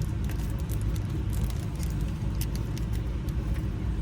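Small sharp metallic ticks and clicks of tiny lock parts being handled, wafers and springs going into an ignition lock cylinder, over a steady low rumble.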